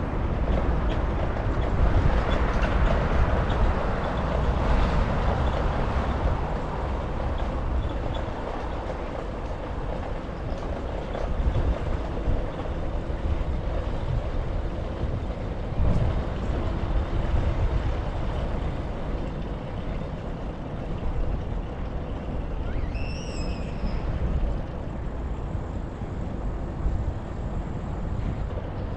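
Wind buffeting a bike-mounted action camera's microphone while riding, mixed with passing road traffic, trucks among it. About 23 seconds in, a brief high squeal rises and then holds.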